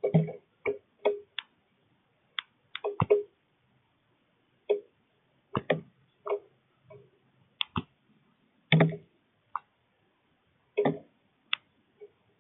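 Northern cardinal feeding: irregular sharp clicks and taps of its beak working seeds and knocking against the feeder, some coming in quick clusters.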